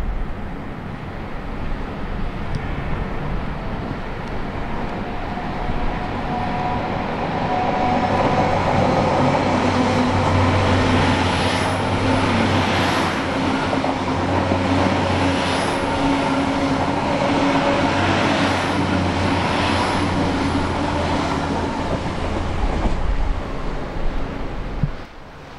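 Great Western Railway Class 800 bi-mode train running on its underfloor diesel engines as it passes close by: a steady engine drone over the rumble of wheels on rail. It builds over the first several seconds, holds, and drops away sharply near the end.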